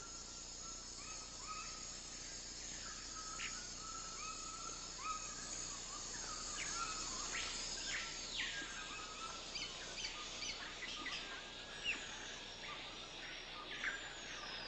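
Tropical rainforest ambience: several birds calling in short repeated whistled notes and quick rising calls, with one longer arching call about halfway through, over a steady high insect hiss.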